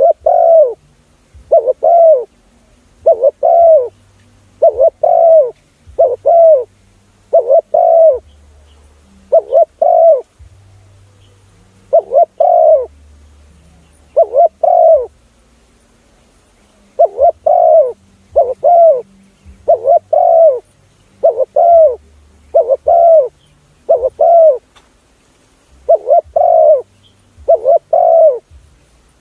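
Spotted dove cooing loudly: pairs of short, arching coos repeated about once a second, in runs broken by short pauses.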